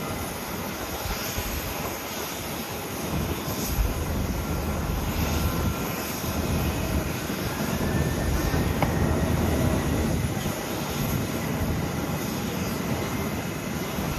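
Boeing 737-800 jet engines (CFM56-7B turbofans) running with a steady broad rumble and a faint high whine, growing louder through the first half.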